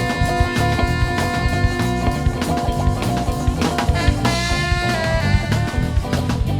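A band playing an instrumental passage between sung verses: guitar with drums and bass keeping a steady beat, with long held notes over it.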